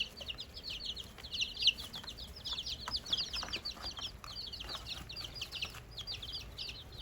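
A brood of week-old White Plymouth Rock × dark Cornish cross chicks peeping continuously: many short, high, falling peeps overlapping one another, with a few faint knocks.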